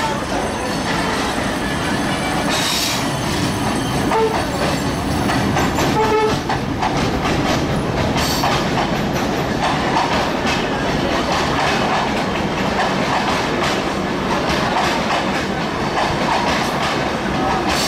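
Passenger coaches of a Bangladesh Railway intercity train rolling past slowly as it enters the station. The wheels clack over the rail joints in a steady stream of knocks, over a continuous rumble.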